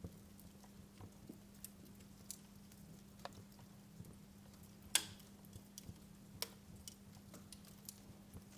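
Wood fire crackling in a fireplace: scattered faint snaps and pops, with one louder pop about five seconds in, over a low steady hum.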